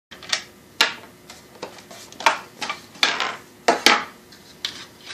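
Irregular clicks and light clatter of hard parts being handled, about ten sharp knocks spaced unevenly, as a belt sander is worked on for a belt change.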